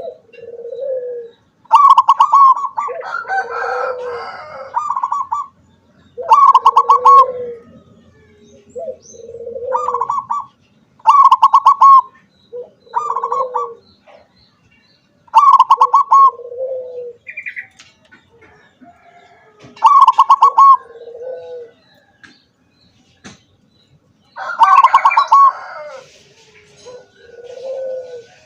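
Zebra dove (perkutut) singing its cooing song over and over: each phrase opens with a rapid, stuttering higher note and falls into lower, rolling coos, repeating every few seconds.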